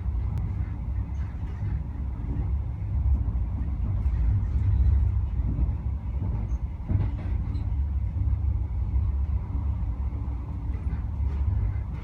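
InterCity 125 (HST) train running at speed, heard from on board: a steady low rumble with a few faint clicks.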